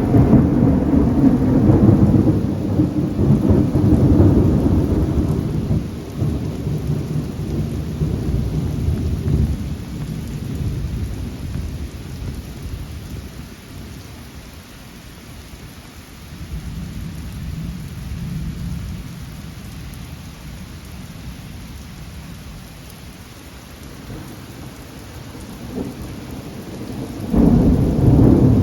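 Thunder rolling: a long, low rumble that fades away over about ten seconds, a fainter roll midway, then a sudden new loud peal near the end. Rain falls steadily underneath.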